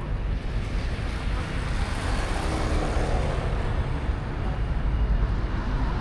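Steady road traffic noise: a continuous low rumble of passing cars and other vehicles.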